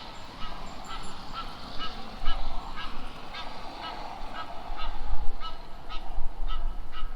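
Geese honking in a long run of short calls, two or three a second, over a steady background hiss.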